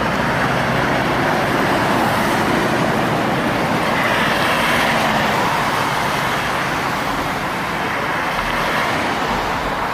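Steady road traffic noise of trucks and other vehicles driving past on a busy road.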